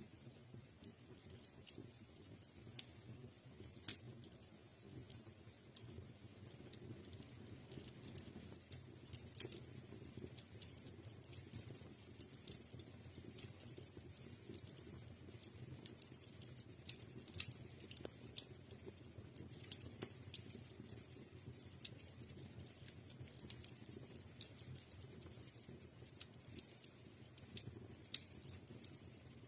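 Wood fire in a fireplace crackling: irregular sharp pops and snaps over a low, steady rush of flame.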